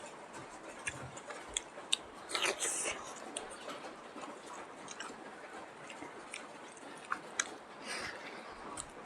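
A person chewing and biting salt pork and mixed vegetables close to the microphone, with scattered wet clicks and smacks and one louder crunchy bite about two and a half seconds in.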